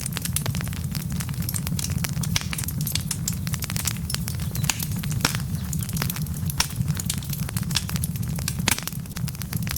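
Wood fire burning with glowing logs: many quick, irregular crackles and pops over a steady low rumble.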